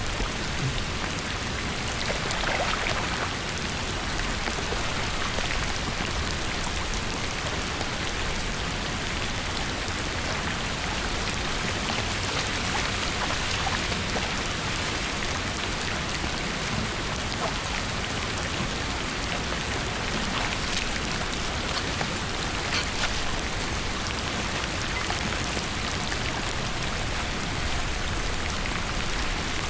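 Steady rain falling on a wet surface, a dense even patter with now and then a sharper drop tick.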